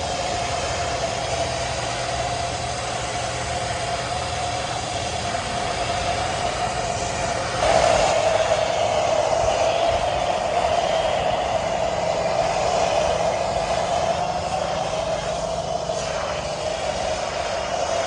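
A cleaning machine's motor running steadily, a constant whine over a hiss of spray or air, which gets louder about eight seconds in.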